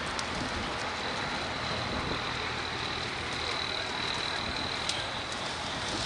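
Steady rushing noise at a house-fire scene, with a faint high whine held through most of it and a sharp click near the end.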